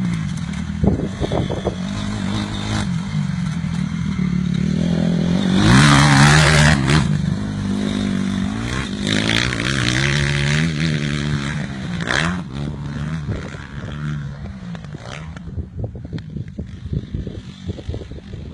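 Honda CRF250R motocross bike's single-cylinder four-stroke engine revving up and down as it is ridden, loudest about six seconds in. It grows quieter and rougher over the last few seconds.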